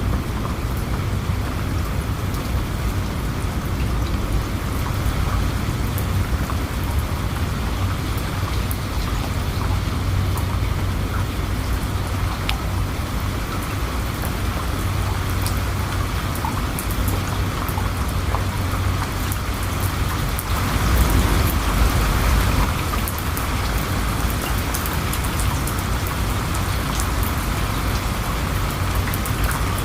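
Steady rainfall, a dense hiss of rain with many small drop ticks. About two-thirds of the way through, a low rumble swells briefly and fades.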